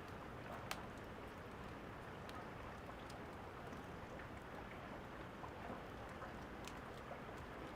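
Steady rain with scattered sharp pops and crackles of a wood fire, the loudest pop under a second in.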